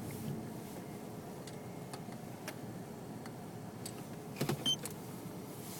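Mazda Millenia running with a steady low hum, broken by scattered light clicks and a quick cluster of louder knocks about four and a half seconds in.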